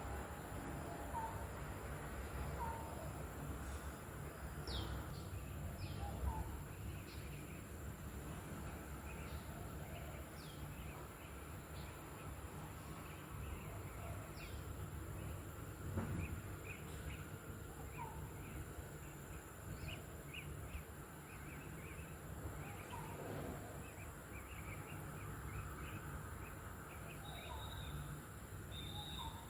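Several wild birds calling: many short, high chirps and scattered brief whistled notes over a steady low background rumble.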